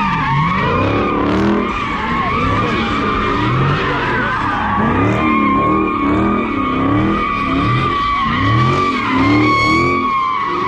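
A car drifting, its tyres squealing steadily while its engine revs rise and fall over and over.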